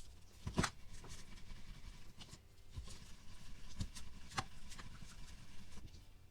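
Scattered light clicks and taps of plastic Play-Doh toy pieces and molds being handled, with a few louder knocks, the clearest about half a second in and two in a row a little after the middle.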